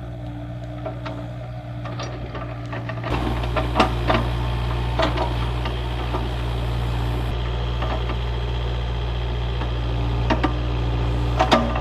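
Machine engine running steadily, getting louder about three seconds in, with scattered sharp clanks and knocks over it.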